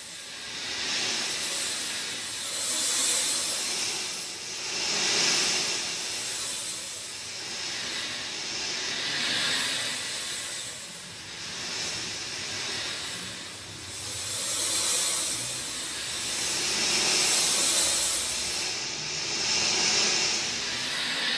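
Steady rain, an even hiss that swells and fades every two to three seconds.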